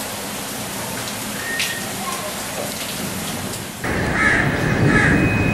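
Steady rain falling. About four seconds in it cuts abruptly to heavier, louder rain, with crows cawing twice over it.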